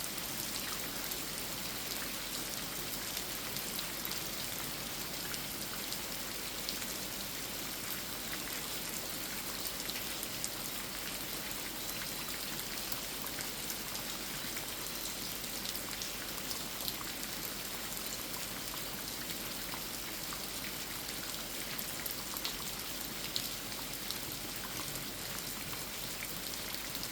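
Steady rain falling on a 500-year-old tree, with nearer drops tapping here and there.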